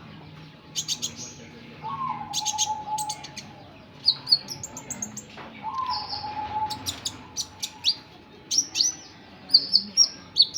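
A kolibri ninja sunbird calling with rapid, sharp, high-pitched chirps and short sweeping notes, in irregular bursts.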